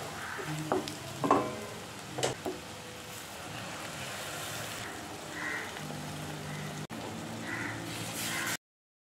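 Onion and tomato masala sizzling in oil in a nonstick pan, with a wooden spatula scraping and knocking against the pan a few times in the first two and a half seconds. The sound cuts off abruptly about eight and a half seconds in.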